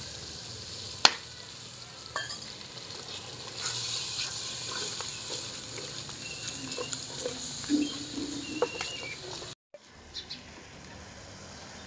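Onion, tomato and spice masala sizzling in oil in a terracotta cooking pot while a spatula stirs it against the clay. A sharp click about a second in, and a brief break in the sound near the end.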